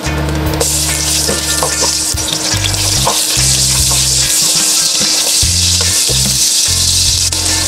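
Food frying in hot oil in a pan, a steady loud sizzle that sets in about half a second in, with a few clicks of stirring.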